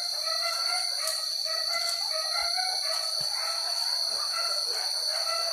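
Forest ambience: a steady, high insect drone like cicadas, with scattered short bird calls.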